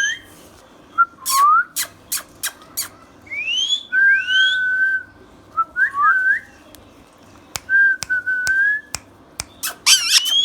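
Ringneck parrot whistling: rising whistled glides and level held notes, mixed with sharp clicks, thickest about a second or two in and again near the end.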